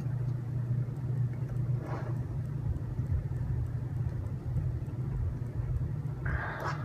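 Steady low background hum, with two faint brief noises, one about two seconds in and one near the end.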